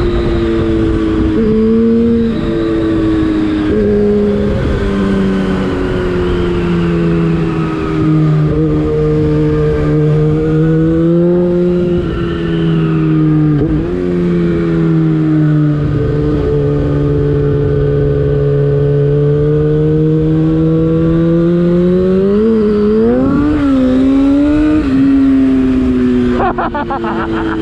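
Yamaha FZ6's inline-four engine through an Akrapovic exhaust under way, its note rising and falling with throttle and gear changes. The pitch holds steady for several seconds in the middle, and there are a few quick revs near the end.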